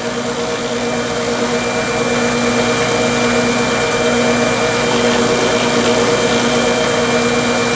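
Wood lathe running steadily with a constant hum while a finish is rubbed into the spinning workpiece. The sound grows slightly louder during the first couple of seconds.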